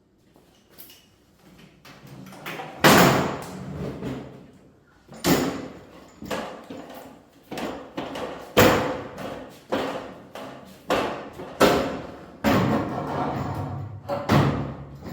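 A series of loud, uneven knocks and bangs, roughly one every second, each ringing briefly.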